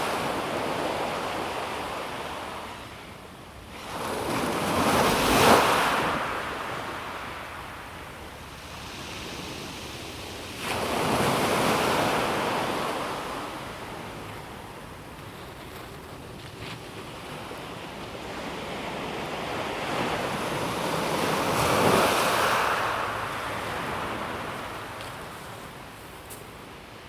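Calm sea waves washing onto a pebble beach, each wave surging in and fading away, four times in all, the loudest about five seconds in.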